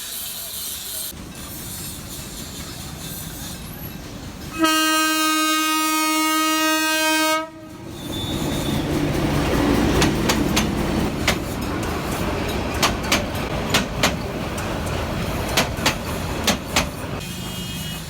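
A train horn sounds one steady blast of about three seconds. The train then passes with a rising rumble and sharp clacks, often in pairs, of its wheels over the rail joints.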